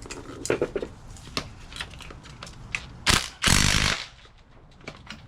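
Tools working on a compressed strut coil spring: scattered metallic clicks and knocks, then two loud bursts from a power tool about three seconds in, the first brief and the second about half a second long.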